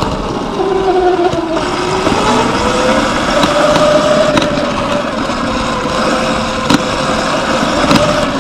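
Surron X Light Bee electric dirt bike's motor whining while riding, its pitch rising and falling with speed, over wind and tyre noise on a helmet-mounted camera. A few sharp knocks come through as the bike goes over bumps.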